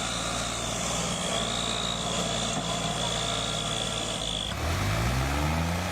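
Tractor engine running hard under a heavy load, with a steady high whine. About four and a half seconds in, the sound changes abruptly to an engine whose pitch rises and falls repeatedly as it revs.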